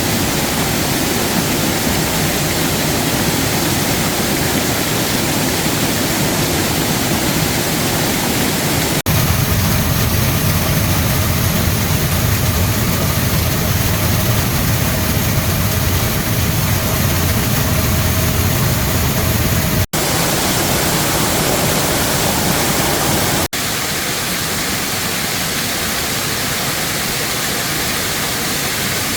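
Steady rush of falling water, as from a waterfall or fast stream, with no other distinct sounds. It changes abruptly three times as one clip cuts to the next, slightly different in tone and loudness each time.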